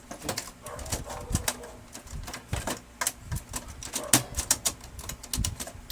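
Irregular clicks and knocks of plastic parts being handled at the rear fuser area of a Brother DCP-L2540DW laser printer, with the printer itself not running.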